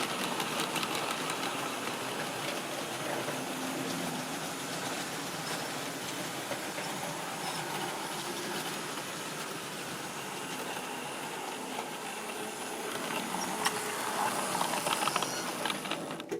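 Model railway train running along the track: a steady electric-motor whirr and wheel noise with fine clicking over the rail, growing louder near the end.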